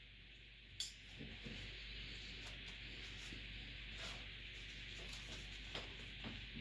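Faint handling noises of computer parts, a sharp click about a second in and a few lighter taps later, over a steady background hiss.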